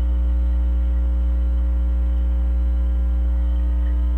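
Steady electrical hum with a stack of even overtones coming over a CB radio, with no voice on the channel.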